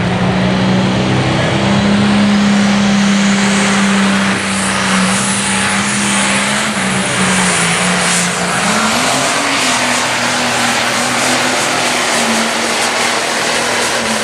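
Light pro stock pulling tractor's turbocharged diesel engine running flat out under load on a pull, with a high whistle through the middle of the run and the engine pitch stepping up about nine seconds in.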